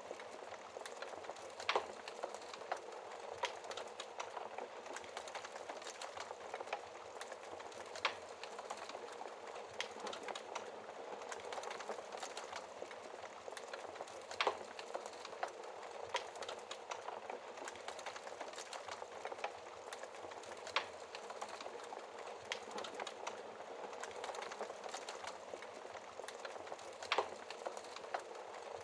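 Wood fire crackling in a fireplace: a steady hiss of flames, full of small snapping clicks, with a few louder pops every several seconds.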